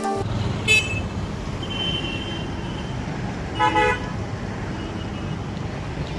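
Road traffic heard from a moving motorbike, with steady low wind and engine rumble. A vehicle horn toots briefly about a second in, and again in a quick double toot a little past halfway.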